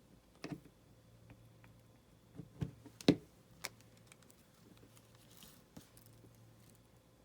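Paper being handled and pressed down on a craft table: a few scattered light taps and clicks, the loudest about three seconds in, with a brief soft rustle near the end.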